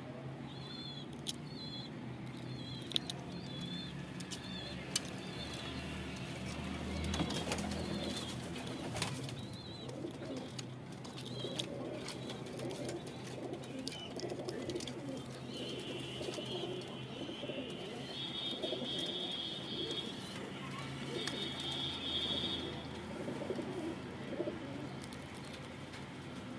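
Domestic pigeons cooing repeatedly, with a few sharp clicks and some short high chirps.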